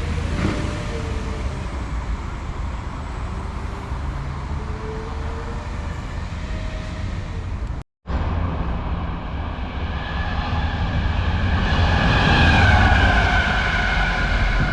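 A steady low vehicle rumble with a wavering tone. After an abrupt cut about eight seconds in, a fast train approaches and passes, growing louder to a peak near the end with a falling whine.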